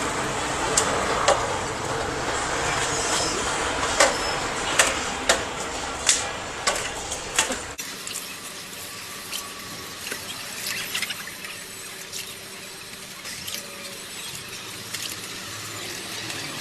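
Running water spraying onto range hood parts as they are washed, a steady hiss that cuts off suddenly about eight seconds in, with sharp knocks and clatter of the parts being handled throughout.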